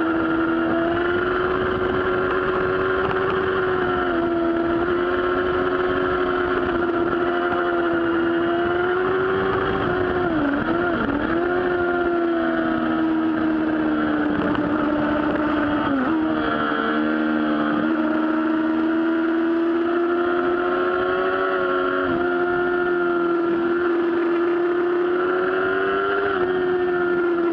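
Yamaha R6 sport bike's inline-four engine running hard at high revs around a racetrack corner, its pitch mostly held steady. The pitch dips briefly about ten seconds in and again about sixteen seconds in before picking back up.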